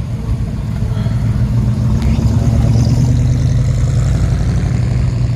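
A car engine running with a low, steady rumble that grows louder toward the middle and eases off near the end.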